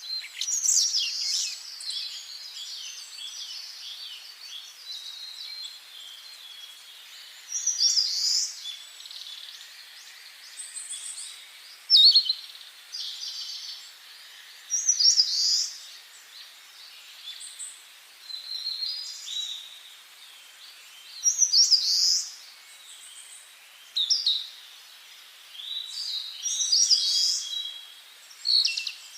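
Forest songbirds singing, short bright song phrases every few seconds over a faint steady hiss.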